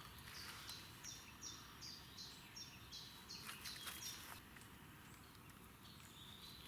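A songbird singing faintly: a string of about ten short, high notes, each sliding down in pitch, about three a second, stopping after a few seconds.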